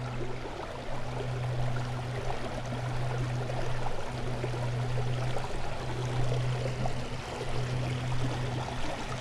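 Creek water running and rippling through a shallow current, a steady flickering rush, with a steady low hum beneath it.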